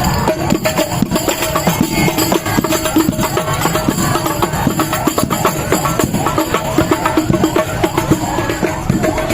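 Elementary school marching band playing: fast, continuous drum strokes with a held melody line over them.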